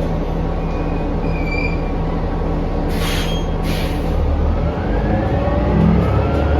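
Inside a 2019 New Flyer XD40 diesel transit bus: the drivetrain runs with a steady low drone, two short hisses sound about three seconds in, and near the end the note climbs with a rising whine as the bus speeds up.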